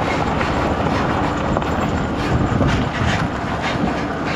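Truck driving slowly over rough ground: a steady low rumble with clattering rattles.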